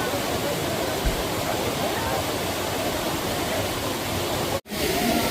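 Waterfall: water rushing and splashing steadily. The sound cuts out for an instant near the end, then resumes.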